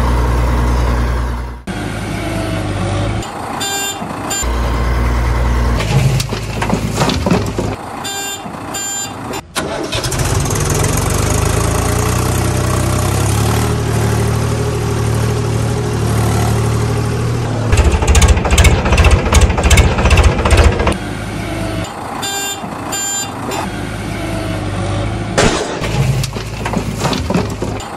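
Heavy-vehicle engine sound effects, diesel engines running, idling and revving, cut together in sections that start and stop abruptly, with a loud rapid rattling stretch past the middle. Short runs of high beeps come in a few times.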